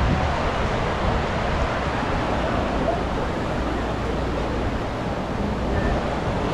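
Steady wash of ocean surf on a beach, with wind buffeting the microphone.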